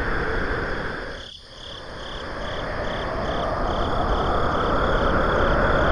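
Frogs calling with a high, evenly repeated chirp about two to three times a second, over a steady rushing background noise. The whole sound dips out briefly about a second and a half in.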